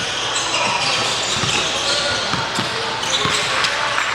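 Basketball bouncing on a hardwood gym floor in uneven thumps several times a second, over chatter and calls from players and spectators echoing in the gym.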